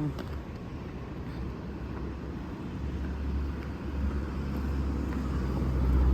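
Car engine and road noise heard from inside the cabin while driving: a low hum that grows louder from about three seconds in as the car picks up speed.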